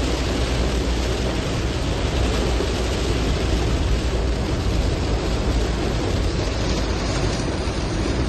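Heavy monsoon rain, a steady hiss, with a low rumble of wind buffeting the microphone.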